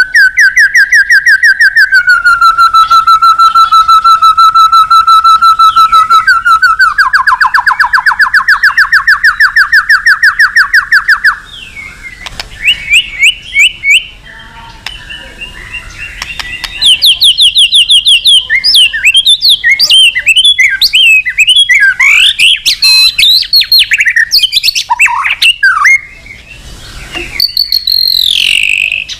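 White-rumped shama in full song. It opens with a long run of fast, evenly repeated notes lasting about eleven seconds, then switches to varied, quickly rising and falling whistled phrases. This is the loud, showy song of a bird calling out a rival.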